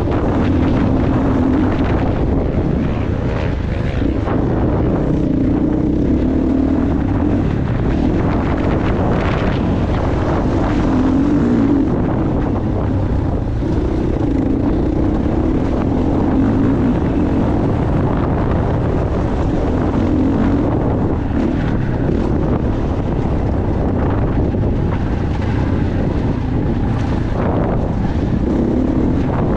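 Motocross bike engine running hard, its note rising and falling again and again as it revs and eases, under heavy wind buffeting on the microphone.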